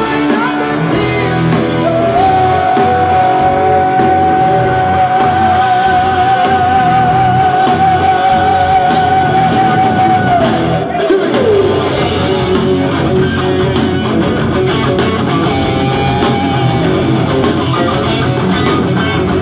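Heavy metal band playing live in a large hall: distorted guitars, drums and singing. About two seconds in, a long high note with vibrato is held for about eight seconds before it slides down.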